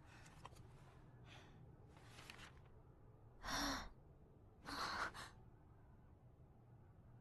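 A person's breathy sighs: two fainter breaths, then two louder exhales a little past the middle, each about half a second long.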